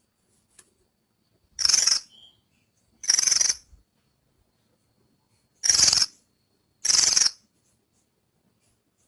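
Branjangan (Australasian bushlark, Mirafra javanica) calling: four short, loud, rasping bursts in two pairs, with gaps of silence between them.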